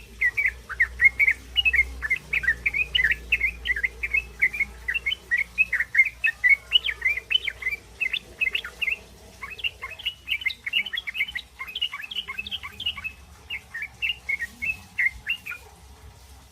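Young sooty-headed bulbuls making their rapid, high begging chirps ('ngriwik'), several short notes a second. The chirping stops shortly before the end.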